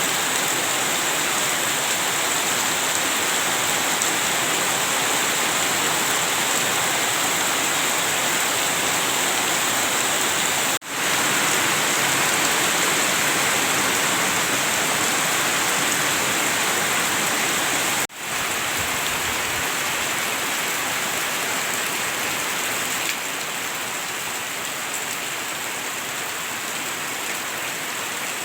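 Heavy rain pouring down steadily, a dense even hiss. The sound drops out for an instant twice, about 11 and 18 seconds in, and is a little softer in the last few seconds.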